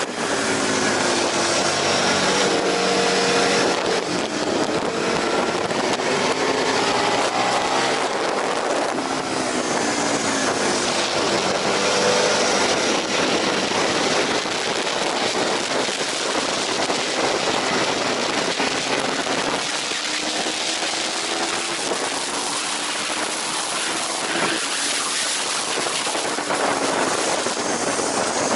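Aprilia RSV 1000 Factory's V-twin engine at racing speed, its pitch repeatedly climbing and dropping back, under a heavy rush of wind noise.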